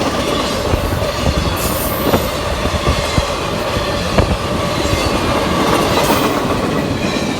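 CSX intermodal freight train's cars rolling past close by, wheels clicking over the rail joints with a steady squeal from the wheels. It fades slightly near the end.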